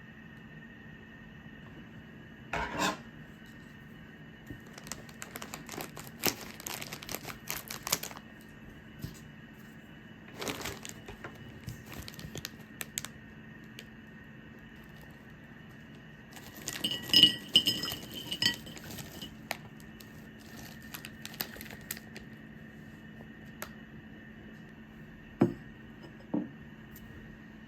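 Small hard objects being handled: scattered clinks and clatters, the loudest cluster with a brief ring about two-thirds of the way in, and two sharp knocks near the end, over a steady faint hum.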